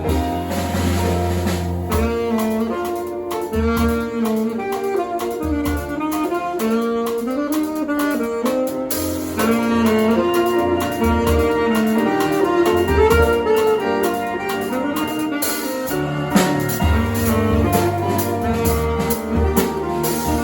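Live jazz band playing: an alto saxophone carries a gliding melody over piano and keyboard chords, low bass notes and a drum kit with cymbals.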